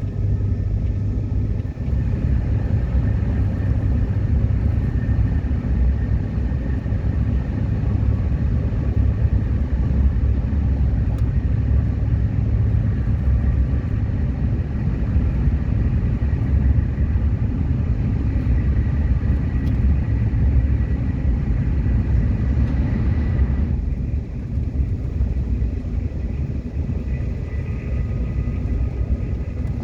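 Subway train running along the track: a steady low rumble of wheels and running gear with a faint thin whine above it. The higher hiss drops off about 24 seconds in.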